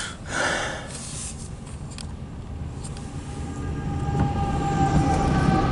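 Diesel locomotives at the head of a CSX loaded coal train approaching, their low rumble growing steadily louder, with steady high tones joining in about three and a half seconds in. Heard from inside a vehicle, with a short burst of noise near the start.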